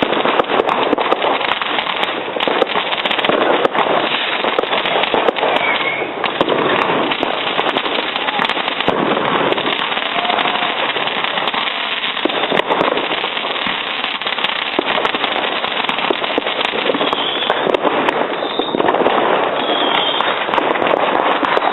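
New Year's Eve fireworks and firecrackers going off without pause: a dense, steady crackle of many bangs, with a few brief high whistles.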